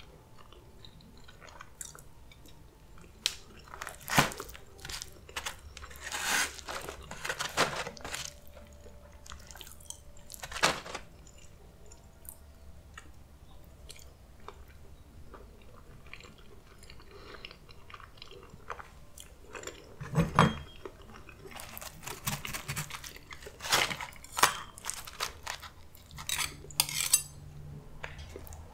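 Close-miked chewing and mouth sounds of a person eating rice and saucy, cheesy chicken enchiladas: irregular wet smacks and bites with a few sharp clicks, in clusters with quieter gaps between.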